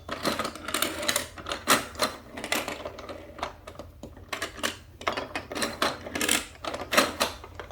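Plastic toy train set clattering: a quick, irregular run of clicks and rattles from the trains and plastic track pieces.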